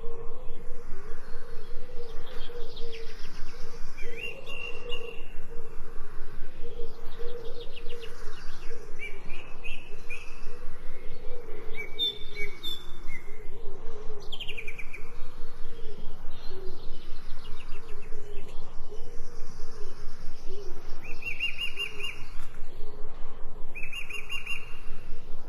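Birds chirping and singing, short repeated chirps and trills throughout, over a steady, rapidly pulsing lower background sound.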